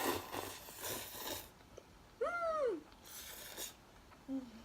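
Noodles being slurped from a hotpot in two noisy draws, one at the start and one about three seconds in. Between them comes one short, high-pitched voice-like sound that rises and falls.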